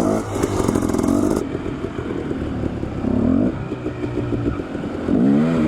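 Dirt bike engines running, their pitch rising and falling as the throttle is worked. A high hiss cuts off sharply about a second and a half in.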